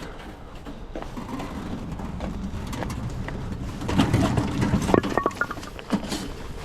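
Split firewood pieces knocking and clattering against each other as they are handled, loudest about four to five seconds in, with a short squeak near five seconds.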